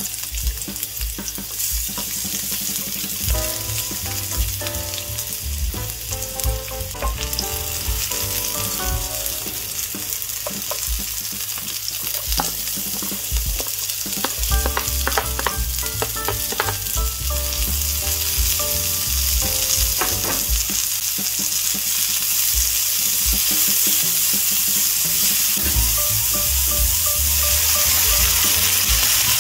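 Sliced onion sizzling in hot oil in a non-stick frying pan, with a utensil stirring and knocking against the pan. About halfway through, shredded carrot goes in, and the sizzling grows louder near the end as a little water is added.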